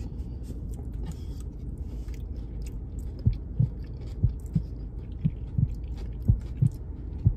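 Close-up chewing of a mouthful of potato salad. From about three seconds in come soft, regular low thumps of chewing, over a steady low hum.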